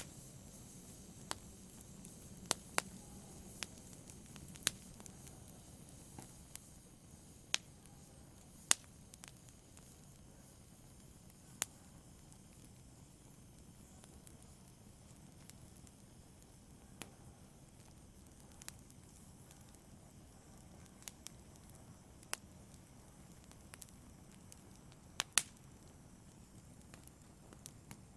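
Wood fire burning in a fireplace: a soft low hiss with sharp, sparse crackles and pops at irregular moments, a close pair of pops near the end.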